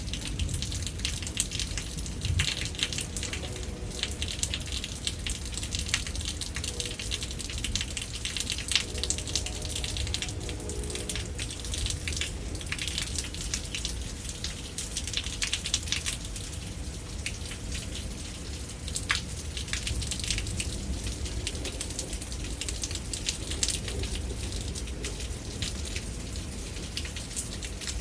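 Steady rain during a thunderstorm, with many separate drops striking hard surfaces over a low, continuous rumble.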